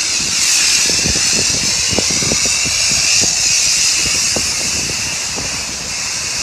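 High-pressure washer wand at a self-service car wash spraying: a loud, steady hiss with irregular low spattering thuds underneath.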